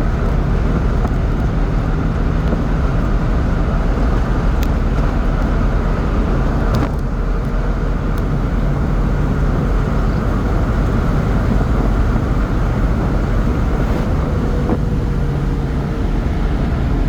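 Honda kei truck driven at full speed: its small engine runs steadily at high revs under a constant rush of wind and road noise. The sound dips slightly for a moment about seven seconds in.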